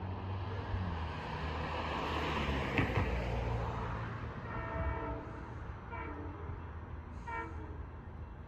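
Long Island Rail Road train passing, with a swelling rush of wheel and running noise over a low rumble and a sharp clack about three seconds in. It then sounds its horn: one longer blast about five seconds in and two short blasts after it.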